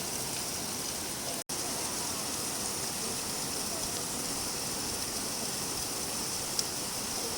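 Steady rain falling, an even hiss of many drops. It cuts out for an instant about a second and a half in, and there is a faint tick near the end.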